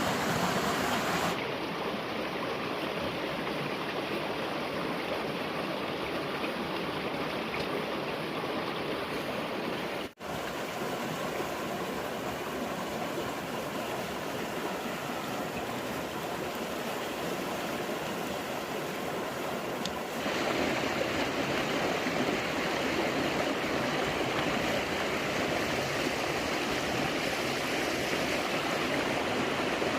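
Steady rushing of running water, like a stream, broken by abrupt changes in its sound and a brief dropout partway through, where the footage is cut.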